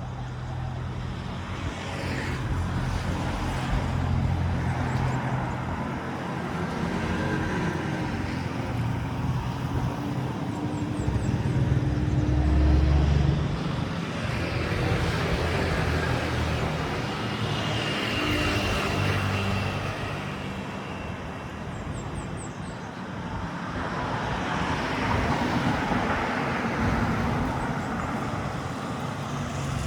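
Road traffic: several motor vehicles pass close by one after another, each swelling and fading, the loudest about twelve seconds in.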